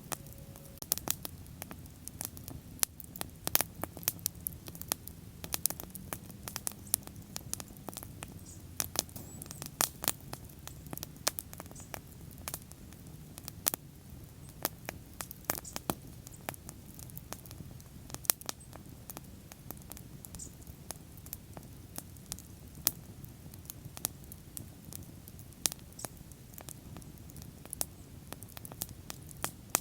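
Bonfire burning and crackling: irregular sharp pops and snaps, several a second at times, over a low steady rush of the flames.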